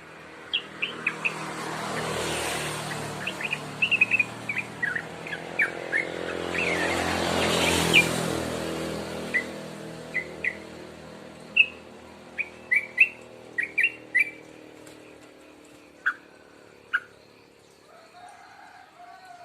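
A young yellow-vented bulbul (trucuk), about two months old, giving short chirps in scattered bursts as it begins to sing. Two swells of rushing noise, like vehicles passing, rise and fade around two seconds and eight seconds in.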